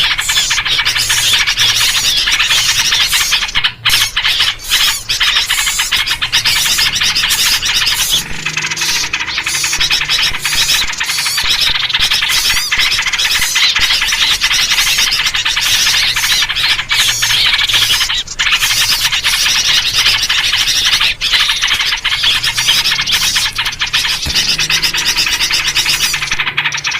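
A dense, unbroken chorus of agitated songbirds chattering and calling loudly, a 'noisy birds' lure recording built on trucukan (yellow-vented bulbul) calls, used to draw in small birds.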